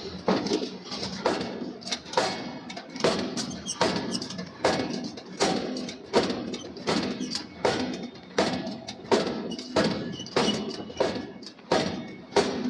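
Steady rhythm of hammer blows on steel in forging, a little more than one strike a second, each with a short metallic ring.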